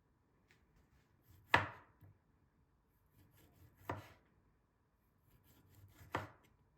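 Knife chopping food on a cutting board: three slow cuts about two seconds apart, each a short slicing sound ending in a knock on the board.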